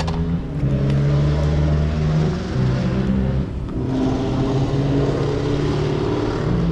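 Motorcycle engine running at low revs, its pitch stepping up and down a few times.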